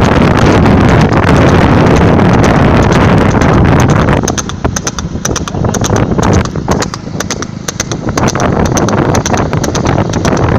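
Horse's hooves beating on the ground in a quick, even rhythm at speed. For the first four seconds they are buried under loud wind noise rushing over the microphone.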